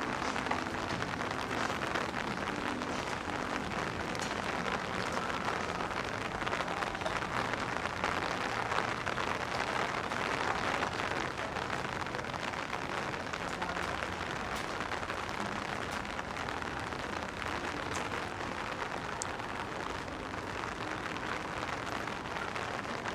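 Steady rain falling, an even hiss of drops on hard surfaces.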